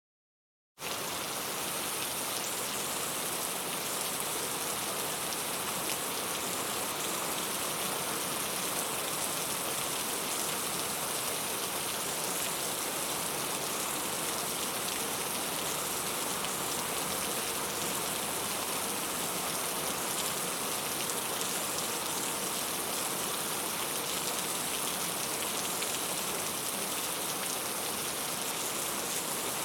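Steady rain falling, dense patter of raindrops hitting a surface, starting suddenly just under a second in and holding even throughout.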